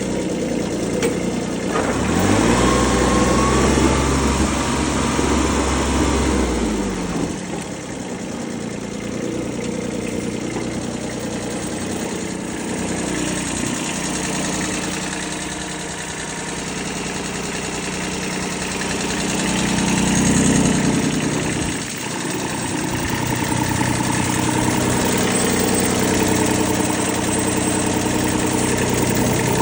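Kubota B6001 tractor's three-cylinder diesel engine running. It revs up about two seconds in and drops back about five seconds later, then runs on with its speed shifting again a little past the middle.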